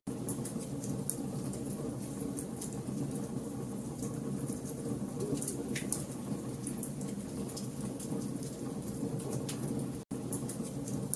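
Wood campfire burning: a steady low rush of flames with scattered sharp crackles and pops from the burning logs. The sound cuts out for an instant near the end.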